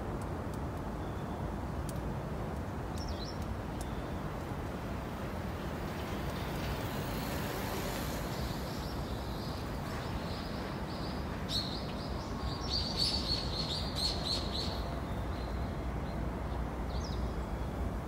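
Small birds chirping over a steady low background rumble of outdoor noise: a few short chirps early, then a quick, dense run of chirps in the second half, and a couple more near the end.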